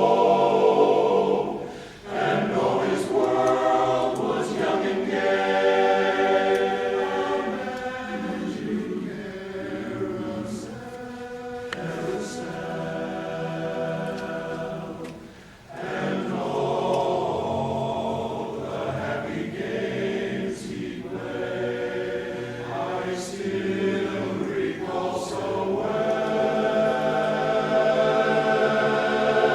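A choir singing in harmony, in sung phrases with short breaks about 2 seconds and 15 seconds in.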